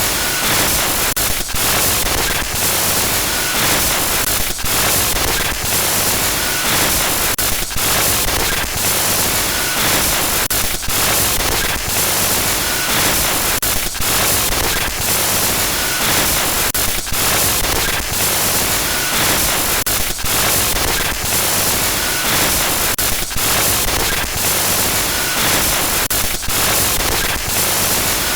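Loud digital glitch noise: harsh static hiss across all pitches, broken by brief dropouts and crackles about once a second, with a faint short beep about every two seconds.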